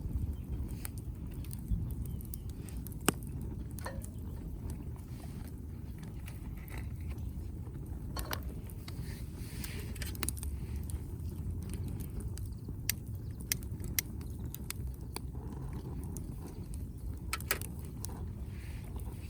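Wood fire crackling in a fire grill: irregular sharp pops and snaps from the burning firewood over a steady low rumble.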